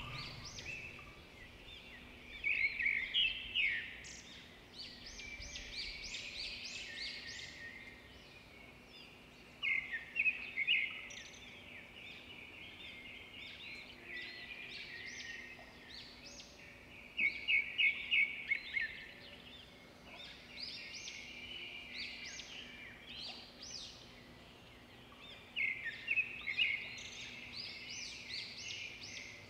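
Small birds chirping in short bursts of quick, rapid notes, several times over, above a faint steady low hum.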